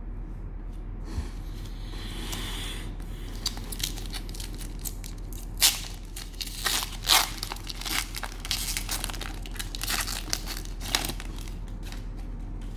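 Cellophane wrapper of a trading-card pack being torn open and crinkled: a short rip about two seconds in, then a run of sharp crackles.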